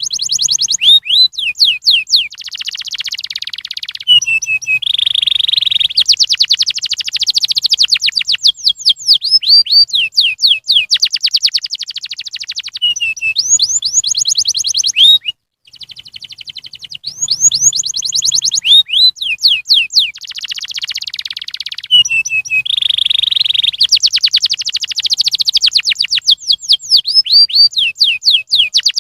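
Domestic canary singing a long song of rapid trills and fast up-and-down sweeping notes. The recording is looped: after a brief cut about halfway through, the same song starts over. A canary lure song, played to prompt other canaries to sing.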